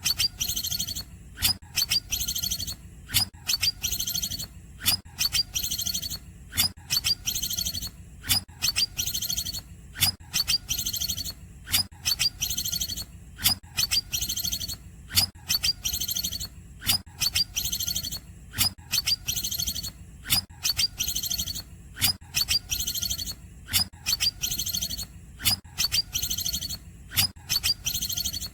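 Green leafbird (cucak ijo) singing a cungkok-style song: the same short phrase over and over, a little more than once a second, each a sharp note followed by a rapid high trill.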